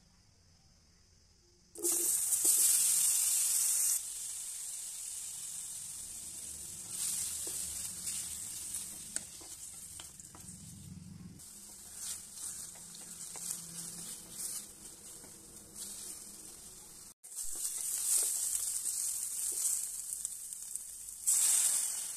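Chopped pineapple dropped into hot ghee and oil in a steel pan, sizzling loudly as it lands about two seconds in, then frying with a steady sizzle and small clicks while it is stirred. Near the end water is poured into the hot pan, bringing a short louder hiss.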